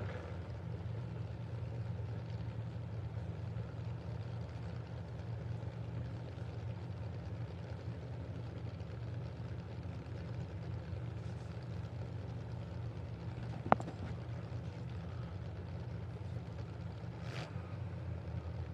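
Steady low engine rumble of vehicles idling on the derby track. A single sharp click sounds about 14 seconds in, and a short hiss comes about 17 seconds in.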